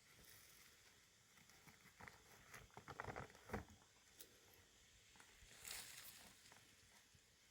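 Faint rustling with light clicks and taps, clustered around two to three and a half seconds in, and a brief soft swish near six seconds.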